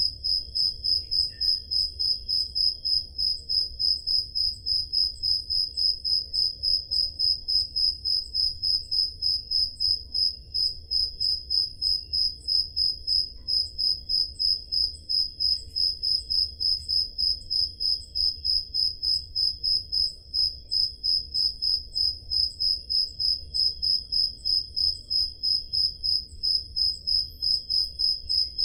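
Crickets chirping at night, one loud cricket's high chirp repeating evenly about two to three times a second, with fainter crickets chirping behind it.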